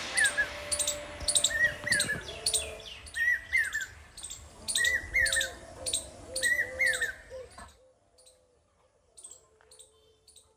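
Birds chirping in short repeated calls about every second or so. About eight seconds in the sound drops suddenly, leaving only faint chirps.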